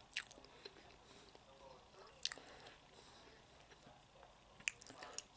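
A man chewing a mouthful of chicken taco close to the microphone, with soft chewing and four sharp wet mouth clicks or lip smacks spread through it.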